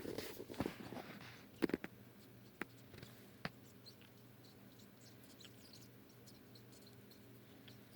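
Faint, irregular clicking and scratching from inside a bag, the kind of noise taken for mice, though no mice or anything else was found inside to cause it. A louder rustle comes about two seconds in.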